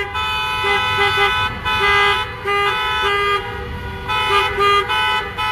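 Several car horns honking at once, overlapping short toots and longer held blasts that start and stop again and again.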